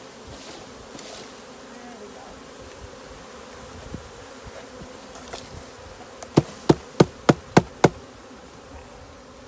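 Honeybee swarm buzzing steadily. About two-thirds of the way through come six sharp knocks in quick succession, about three a second.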